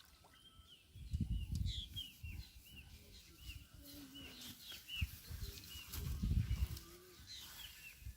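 Small birds chirping over and over, short high calls following one another, outdoors. Two low rumbling bursts come about a second in and again around six seconds, with a single knock just before the second.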